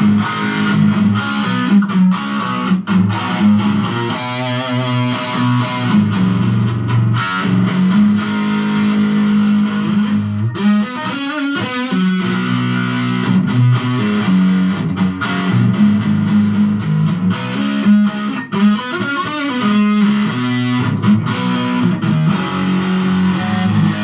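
B.C. Rich KKV signature electric guitar played through distortion: heavy palm-muted riffs and sustained chords. The pitch wobbles and warbles about ten seconds in and again near 18 s.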